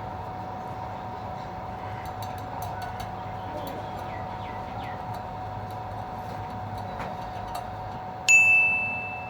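Steady faint hum with a few light clicks, then a single bright metallic ring about eight seconds in that dies away over about a second.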